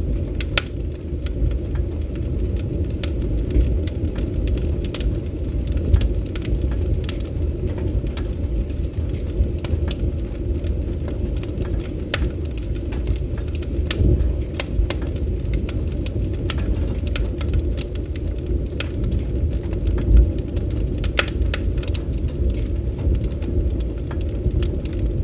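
Wood fire crackling: a steady low rumble of burning with irregular sharp pops and snaps, one louder pop about twenty seconds in.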